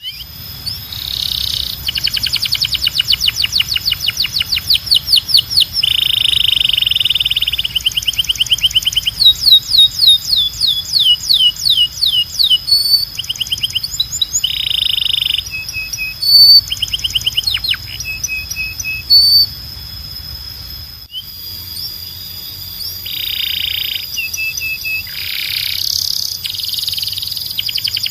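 Domestic canary (Belgian canary) singing a long, loud song of rapid trills: each note is repeated many times a second, then the song switches to another note. The trills are mixed with held buzzy rolls and short high whistles, and the song breaks briefly about three quarters of the way through.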